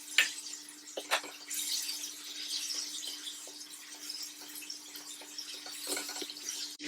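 A steady high hiss with a low steady hum beneath it. A few sharp clicks and knocks come about a second in and again near the end.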